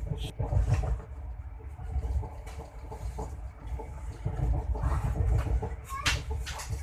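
Steady low rumble of a moving train, with irregular knocks and rattles over it and a short rising squeak about six seconds in.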